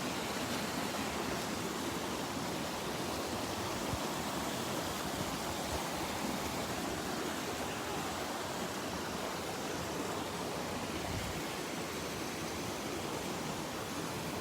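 Spring water flowing in a stream, a steady rushing without breaks.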